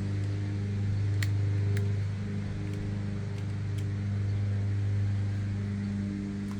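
An engine runs steadily with a low, even hum, and a few light clicks of small-part handling sound between about one and four seconds in.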